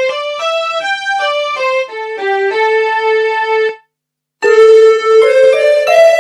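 Yamaha PSR-SX arranger keyboard playing a single-note melody on one of its sampled instrument voices, each note held or stepping quickly up and down. The melody stops a little under four seconds in, and after a brief silence a different voice comes in with overlapping notes.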